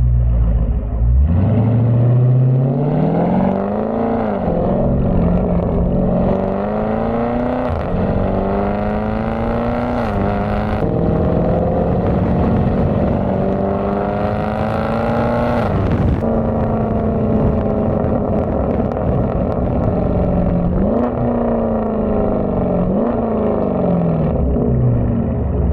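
2019 Dodge Charger Scat Pack's 6.4-litre HEMI V8 exhaust under acceleration. The engine note climbs and drops sharply several times as the car shifts up through the gears, then holds steadier and eases back to a low rumble near the end.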